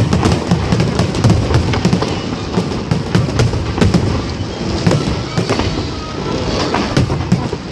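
Fireworks display in full swing: a rapid, continuous barrage of shell bursts and crackling reports, heard close up with heavy low booms under many sharp cracks each second.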